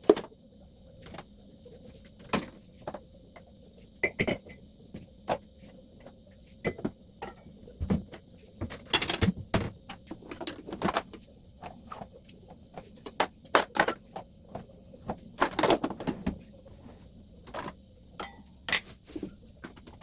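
Jars, containers and refrigerator shelves clinking and knocking at irregular intervals as a refrigerator is emptied for cleaning, over a faint steady hum.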